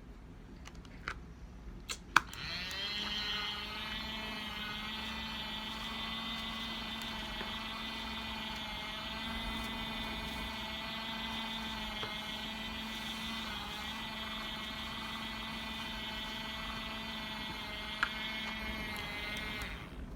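Small electric motor of a mini makeup-sponge washing machine switched on with a click about two seconds in, then running with a steady whirring hum until it stops near the end.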